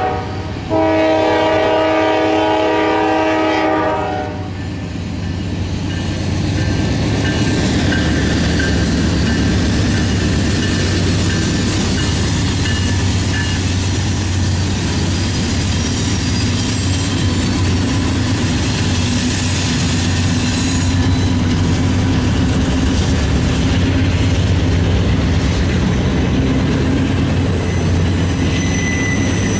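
Norfolk Southern diesel locomotive's air horn sounds a chord, briefly broken near the start and stopping about four seconds in. Then the locomotives and intermodal stack train cars pass close by: a steady rumble of diesel engines and wheels clattering on the rails, with high-pitched wheel squeal near the end.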